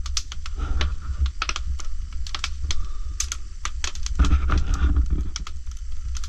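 Burning oak firewood crackling and popping in irregular sharp clicks over a low steady rumble.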